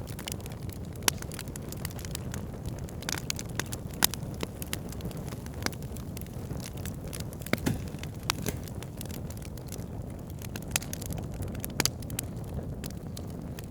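Wood campfire burning: a steady low rush of flame with sharp, irregular crackles and pops from the burning wood, a few louder snaps scattered through.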